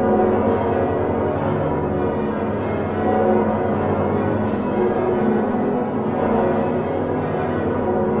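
Many large church bells of the Utrecht Dom tower swinging together on straight yokes with flying clappers, the Geert van Wou bells of 1505 among them. They make a dense, continuous clangour of overlapping strikes and long ringing tones.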